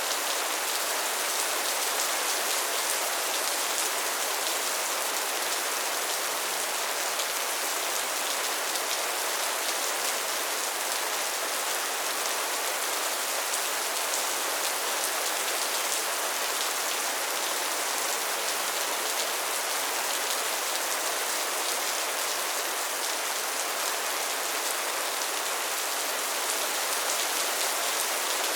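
Steady rainfall: an even, unbroken hiss of rain, with individual drop hits flecked through it.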